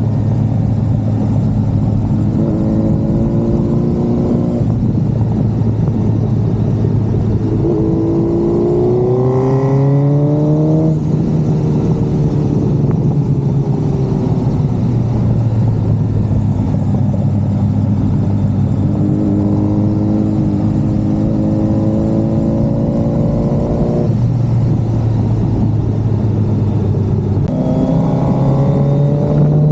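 A 2022 Suzuki Hayabusa's inline-four engine running on the road, holding a steady note for long stretches and rising in pitch as it accelerates, once about eight seconds in and again near the end, dropping back at about eleven seconds.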